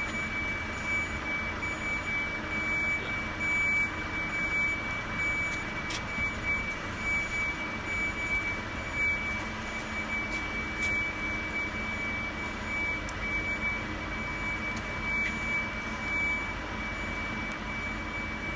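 Heavy vehicle or lifting machinery running steadily, with a high warning beeper sounding continuously over the engine hum.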